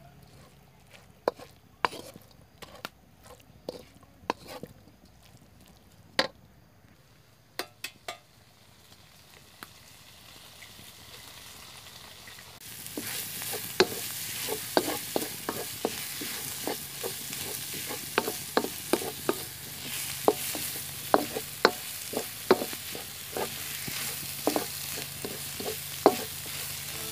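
Wooden spatula scraping and knocking against a large black wok as crumbled sausage and sliced peppers are stir-fried, in sharp separate clicks. About 13 seconds in, a loud frying sizzle sets in and carries on under the stirring.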